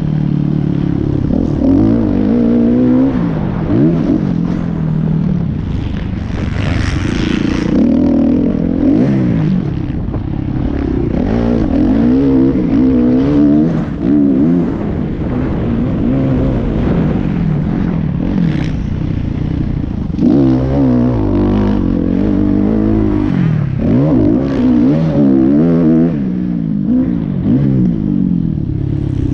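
Motocross bike engines revving hard, pitch climbing and dropping again and again as the riders open and close the throttle and shift, with a brief hiss about seven seconds in.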